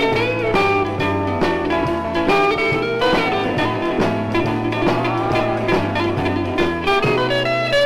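Instrumental break of a 1964 British rhythm-and-blues record: quick-changing guitar lead over bass and drums, with no singing.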